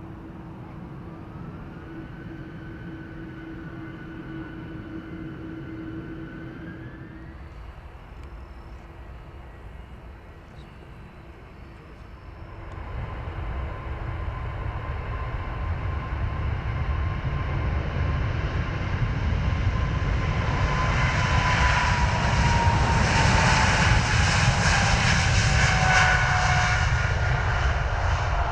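Boeing 747-8 freighter's four GEnx turbofan engines at takeoff power. A whine rises in pitch in the first couple of seconds. From about twelve seconds in the engine noise builds sharply as the jet rolls down the runway toward the listener. It is loudest about three quarters through, while a whine slides down in pitch as the aircraft passes.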